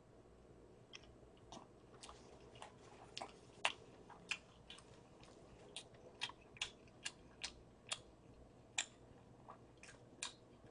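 Close-up chewing of a mouthful of hamburger: faint, irregular wet mouth clicks, about two a second.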